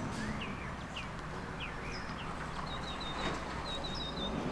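Small birds chirping: a few short single chirps, then two quick runs of high repeated notes in the second half, over a steady low background hum.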